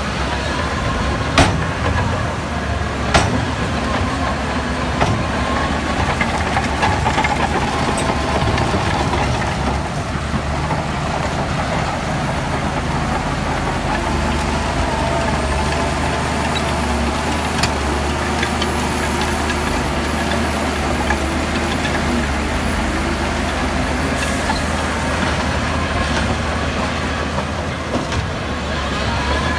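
Heavy diesel earthmoving machinery running steadily under load, with a few sharp metallic clanks, the loudest about a second and a half and three seconds in.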